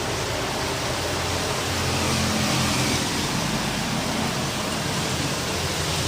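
Heavy rain in strong wind: a steady rushing noise that swells a little around the middle.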